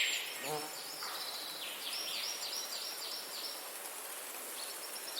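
A songbird singing a run of about six quick falling notes partway through, over a steady background hiss of wind.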